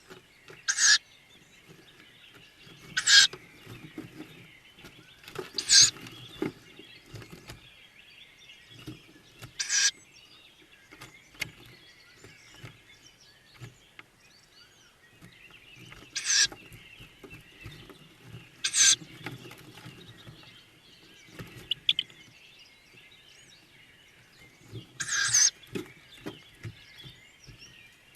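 Tawny owl chicks in the nest box giving short, harsh hissing begging calls, about seven in all at uneven gaps of two to six seconds, with faint rustling between them.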